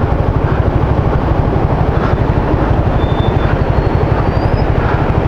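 Motorcycle engine running steadily with a rapid, even low throb, under a constant rushing noise.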